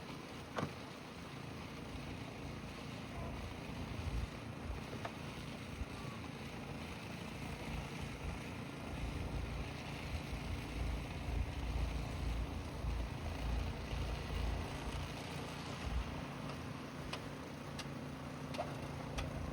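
A vehicle engine running steadily, with heavier low rumbling for several seconds in the middle and a few faint clicks.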